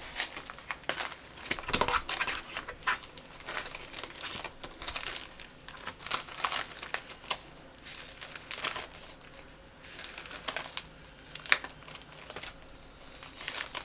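Sticker sheets and paper crinkling and rustling as they are handled and sorted, with irregular light clicks and taps.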